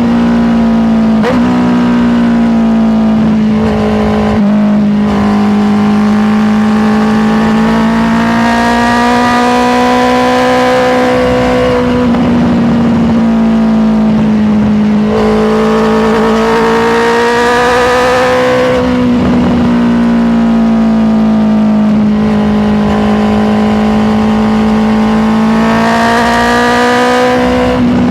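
Honda CBR650R's inline-four engine running steadily under way, its note rising and falling gently with the throttle. There are two brief breaks in the note in the first few seconds.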